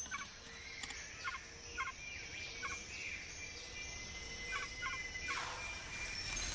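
Rainforest birds calling: short doubled notes repeated at irregular intervals over a steady high whine, with a brief swish a little over five seconds in.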